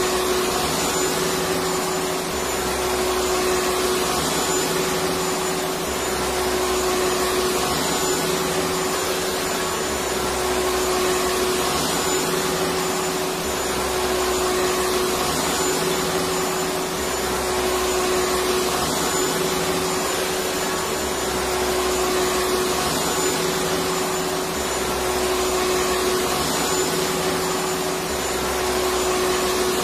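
Electric vacuum cleaner running steadily, a dense rushing noise with a constant motor whine, swelling slightly every three to four seconds.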